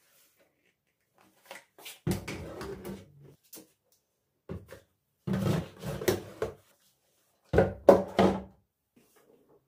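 Household cleaning and handling noises in a small tiled room: several short bursts of rubbing and clatter with knocks, separated by silent gaps, the loudest cluster of knocks coming a little past the middle.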